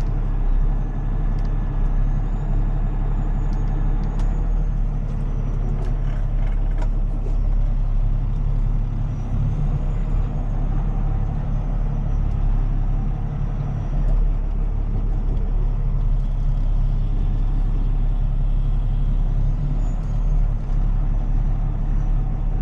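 Heavy-duty tow truck's diesel engine running steadily at low revs, with a few short clicks about five seconds in.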